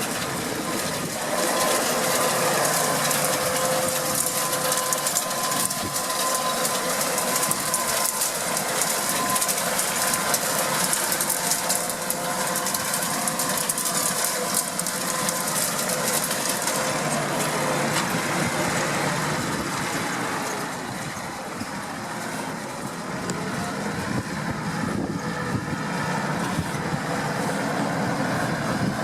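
New Holland T7.235 tractor running under load with a CLAAS Liner rotary rake turning behind it: a steady engine and machinery clatter that eases a little about two-thirds of the way through.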